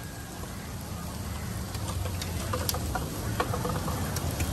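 Egg bhurji masala sizzling and crackling on a large street-vendor griddle, with scattered light clicks from about a second and a half in, over a steady low street hum.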